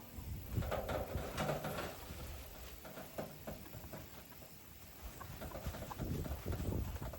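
Loose dry material, most likely chicken feed, being poured into a container: a rattling patter of many small grains in two spells, about half a second in and again near the end, quieter between.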